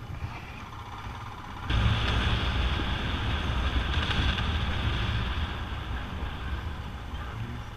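Royal Enfield Himalayan's single-cylinder engine running as the motorcycle rides along, with wind noise over the microphone. The sound grows suddenly louder about two seconds in, then slowly eases.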